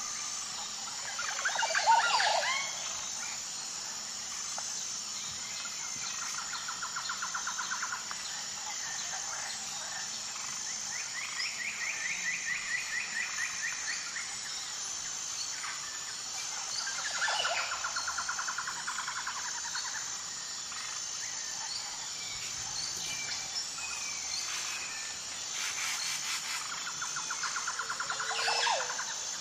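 Wild birds calling: a loud sweeping call about two seconds in, then rapid rattling trills that come back several times, over a steady high-pitched drone.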